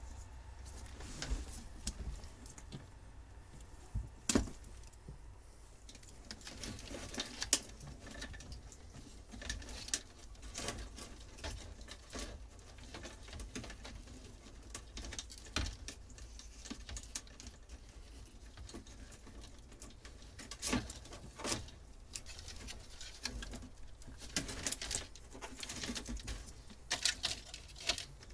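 Irregular clicks, knocks and rustling of hands and tools working at old boat wiring, pulling and handling wires, with a few sharper knocks about 4 and 7.5 seconds in.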